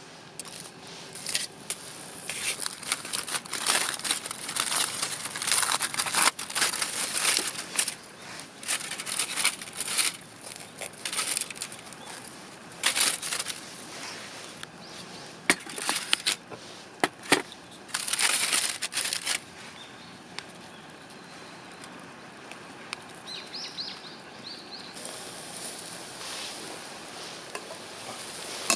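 Irregular bursts of rustling and crinkling with a few sharp clicks, like material being handled. They go on for about twenty seconds, then give way to a quieter steady background.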